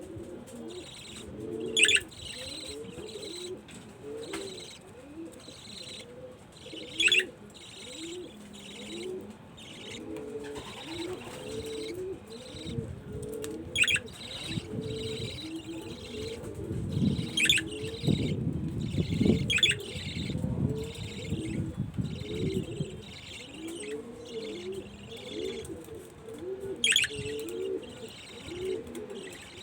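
Pigeons cooing over and over, with budgerigars chattering faintly and giving about seven sharp high chirps spread through. The cooing and low sounds grow louder in the middle.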